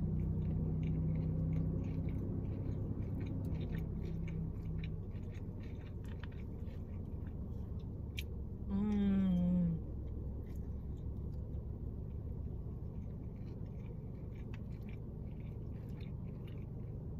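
Close-miked eating of chewy Korean rice cakes in spicy sauce: soft chewing with small wet mouth clicks, and a short voiced "mmm" about nine seconds in. A low steady hum sits underneath and fades out after the first few seconds.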